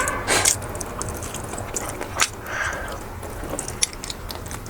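Close-miked chewing and mouth sounds of someone eating, with a few scattered soft smacks and clicks.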